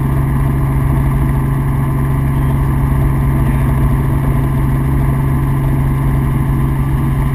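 Helicopter in flight: steady rotor and engine noise with a strong, unchanging low tone.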